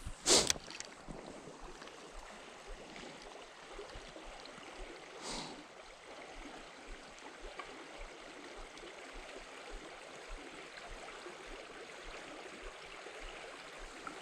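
River current flowing steadily. There is a brief loud whoosh just after the start and a softer one about five seconds in.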